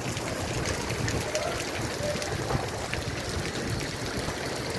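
Heavy rain pouring steadily, with scattered sharp ticks of drops striking close by.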